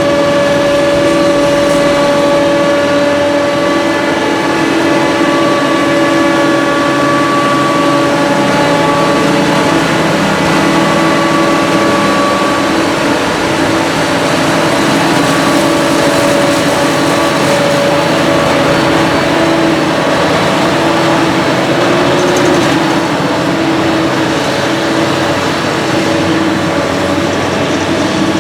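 Heavy diesel machinery running steadily at constant working revs, with a steady whine over the engine noise.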